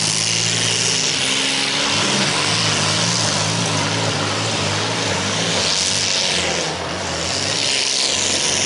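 Demolition derby cars' engines revving, several at once, their pitch shifting up and down, under a loud high rushing noise.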